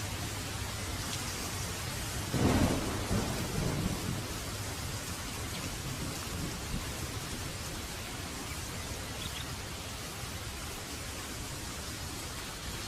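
Heavy rain falling steadily, with a clap of thunder about two seconds in that rumbles for a second or two before sinking back under the rain.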